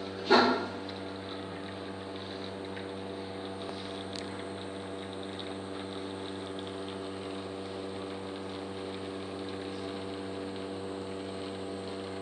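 Espresso machine pump humming steadily as a shot is extracted. A single sharp knock comes about a third of a second in.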